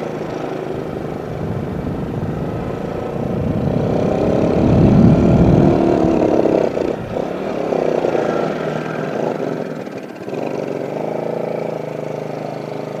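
Yamaha Jupiter Z's single-cylinder four-stroke engine pulling under load as the bike is ridden, its pitch rising and falling with the throttle; it is loudest about five seconds in.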